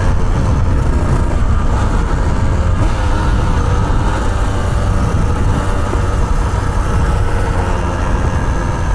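Dirt bike engine running steadily at low revs, with a loud low rumble and no revving.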